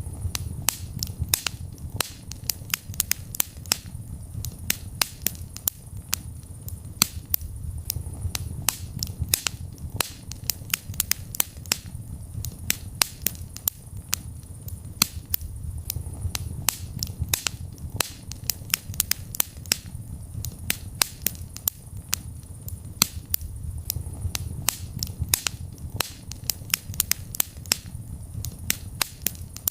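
Wood fire crackling in a fireplace: dense sharp pops and snaps several times a second over a steady low rumble.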